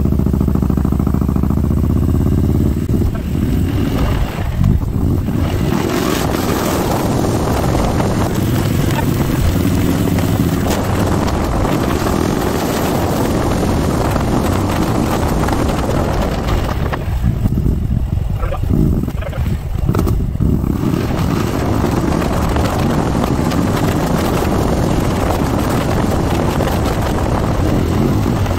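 Harley-Davidson Milwaukee-Eight 114 V-twin with an S&S 475 cam accelerating, its pitch rising over the first few seconds. It then runs on at road speed with heavy wind noise on the microphone, which eases briefly about two-thirds of the way through. The bike is being ridden to log data for an auto-tune session.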